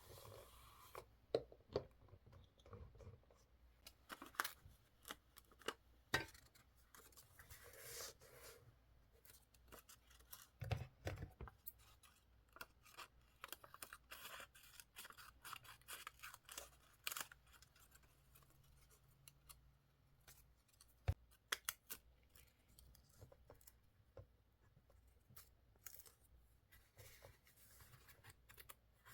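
Scissors cutting paper: quiet, irregular snips and clicks with short rustles of paper being handled.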